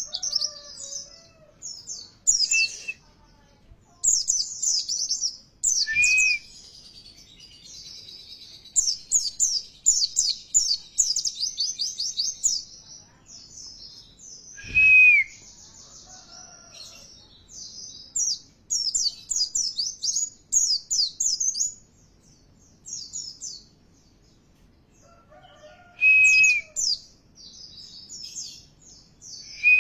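White-eye (pleci) singing a lure song: bursts of fast, high twittering phrases a few seconds long, with short pauses between them. A few brief lower whistled notes come in between the bursts.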